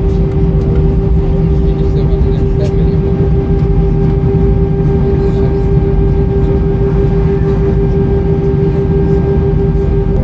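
Airbus A320 cabin noise from a window seat: a steady rumble of engines and airflow under a constant mid-pitched hum.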